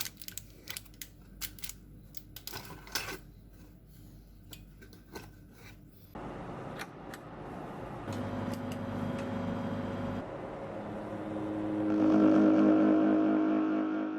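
Several sharp clicks and taps, then about six seconds in a steady mechanical hum starts and grows louder in steps, loudest near the end.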